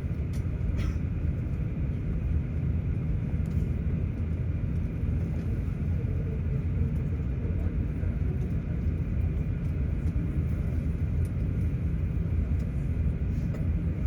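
Cabin noise inside an Airbus A350-900 taxiing on the ground: its Rolls-Royce Trent XWB engines at idle and the cabin air, a steady low rumble with a faint high hum.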